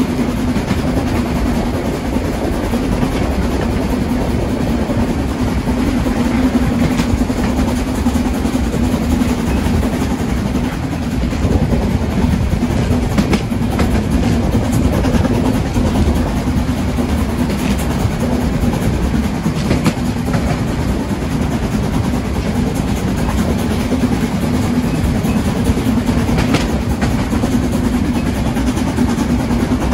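A train running on the track with a steady rumble and a constant hum, and now and then a click of the wheels over the rail joints.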